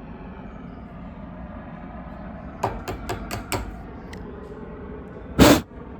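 Four or five light clicks of small metal parts being handled, then one short, loud puff of breath blowing debris out of the generator's gas cap and filler.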